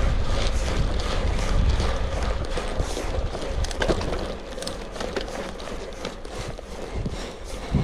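Gravel bike rolling over a rough forest road: tyres crunching and the bike rattling with many small clicks, over a low wind rumble on the microphone. It gets somewhat quieter about four seconds in.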